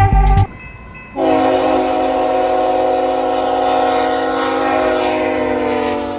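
Locomotive air horn sounding one long chord of several notes for about five seconds, dipping slightly in pitch as it ends. Just before it, background music with a beat cuts off.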